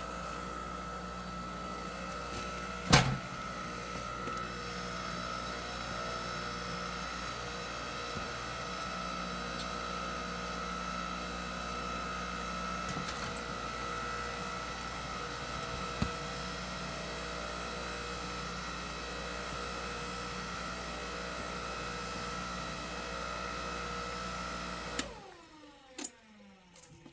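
Engine-driven hydraulic log splitter running steadily with a constant whine, with one sharp knock about three seconds in. It cuts off abruptly near the end.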